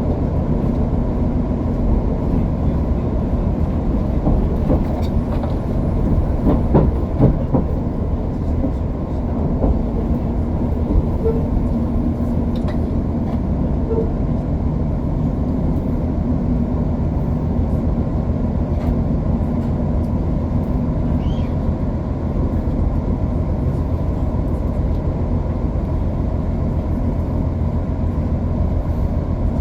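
Inside a Limited Express Hokuto diesel train running at speed: a steady rumble of wheels and engines, with a few rail-joint clicks about five to seven seconds in.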